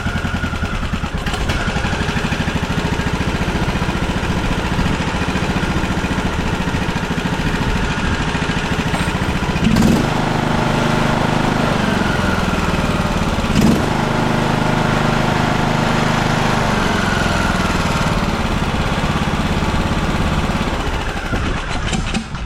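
Riding mower engine, moved from a Craftsman mower into a John Deere D120, running steadily on its first run after the engine swap. About ten seconds in there is a click and the engine runs a little faster and louder, with another click a few seconds later.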